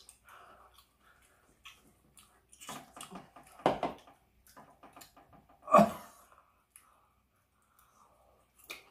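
A person eating close to the microphone: chewing, with scattered small clicks. Two louder noises come about four and six seconds in.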